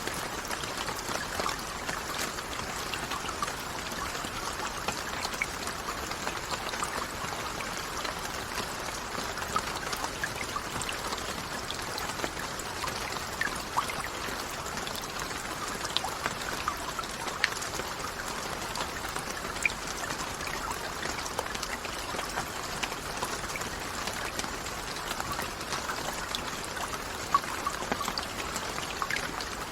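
Steady rain falling, a continuous wash of water noise with scattered sharp drop impacts ticking through it.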